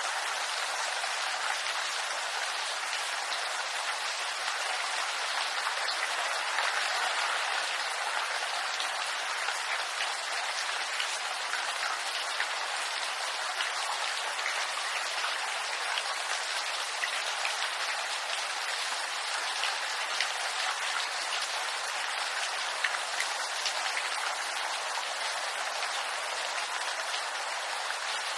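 Steady rain falling on a bamboo grove, a dense even patter with many small drop taps scattered through it.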